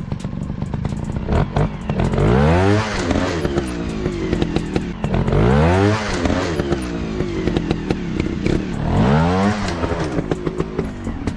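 Small single-cylinder four-stroke trail bike engine running under load and revving up sharply three times, each time rising steeply in pitch and dropping back, with scattered clicks and clatter throughout.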